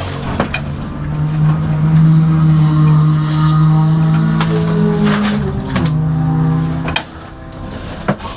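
Car engine running steadily, with several sharp knocks over it; the engine sound drops away about seven seconds in.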